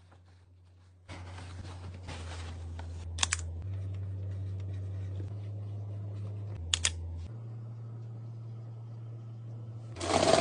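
Items being handled and set into a refrigerator: light rustling and sharp plastic clicks, two quick double clicks about three and seven seconds in, over a low steady hum. A louder clatter of handling starts near the end.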